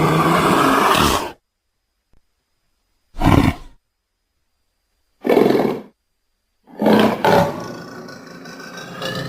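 Big cat roaring in separate calls: one roar cuts off about a second in, two short roars follow a couple of seconds apart, and a longer roar near the end trails into low growling.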